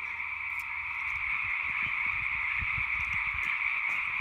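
A dense chorus of many frogs calling at once, a steady high din that swells slightly about a second in, with soft low thumps underneath.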